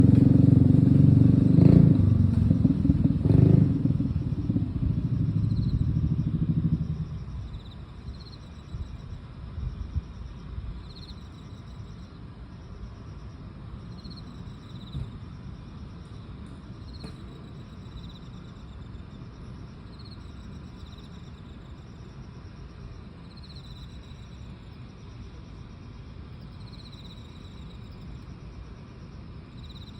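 Grass insects chirping and trilling: short high chirps every second or two over a steady pulsing trill. For the first seven or so seconds a loud vehicle engine runs over them, then stops abruptly, leaving only the insects.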